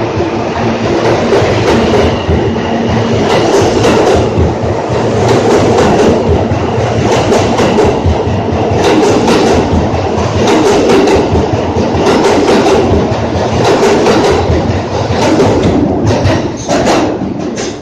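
R160 subway train departing the station, its wheels clattering rhythmically over the rail joints under a loud, steady rumble. The sound drops away near the end.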